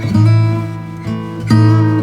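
Background music: acoustic guitar playing, notes and chords plucked about every half second.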